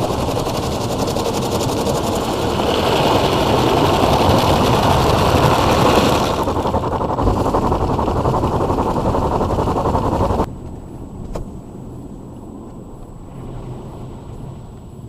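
Automatic car wash machinery running with a loud rushing noise. It cuts off suddenly about ten seconds in, followed by a single click and quieter running.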